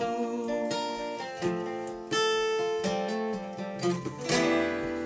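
Acoustic guitar played, with notes plucked and strummed and left to ring.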